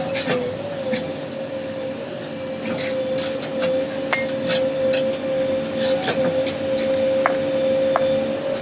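JCB backhoe loader running with a steady whine, with scattered metallic clinks and knocks over it.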